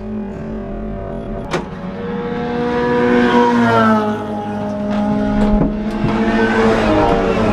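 Race car engine heard onboard, its revs climbing for a second or two and then holding, with a few sharp knocks or clicks.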